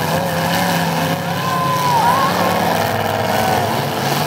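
Several demolition derby cars' engines running and revving together: a loud, steady drone with whining pitches that rise and fall.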